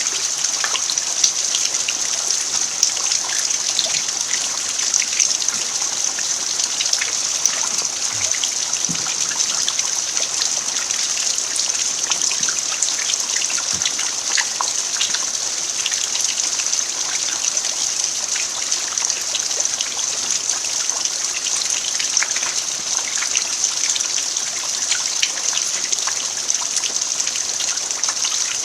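Steady rain falling on a dirt yard, with many small drops pattering and a trickle of running water.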